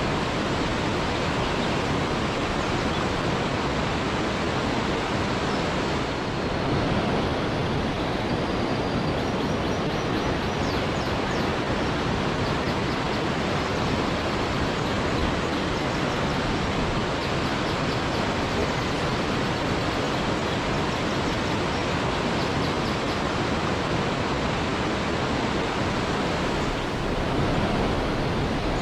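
Waterfall rushing steadily, a continuous dense hiss of falling water. A few faint high chirps come through about a third of the way in and again near the end.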